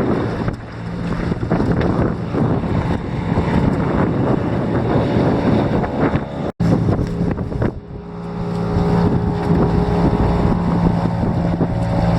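A jon boat's motor running under way, with wind rushing over the microphone. The sound drops out for an instant about halfway through, and from about two-thirds of the way in the motor's hum is steady and clear.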